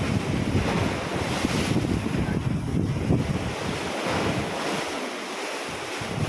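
Ocean waves splashing, with wind buffeting the microphone in low gusts that ease off about two-thirds of the way through.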